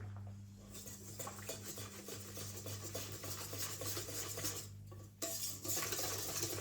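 Utensil stirring and scraping in a bowl, a continuous rustling-clinking texture that pauses briefly about five seconds in and then resumes, over a steady low hum.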